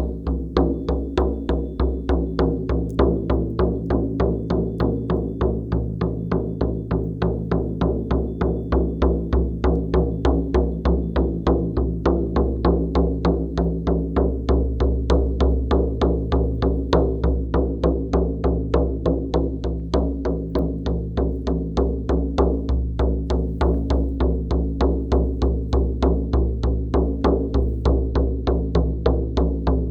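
Music of a shamanic frame drum beaten in a steady, even rhythm, about three beats a second, over a low sustained drone.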